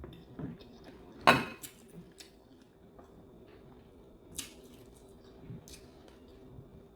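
A few scattered clinks of cutlery against a plate during eating, the loudest about a second in.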